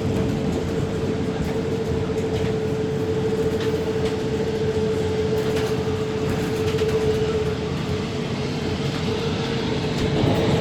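Steady running rumble of a tour bus heard from inside the cabin, with a constant high whine that fades out about three quarters of the way through.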